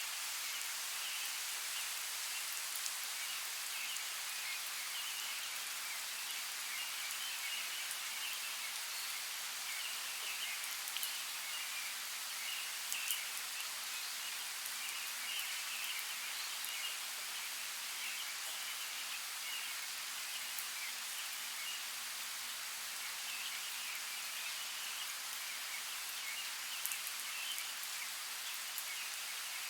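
Steady hiss of falling rain with scattered sharper drop ticks, over a continuous high chirping.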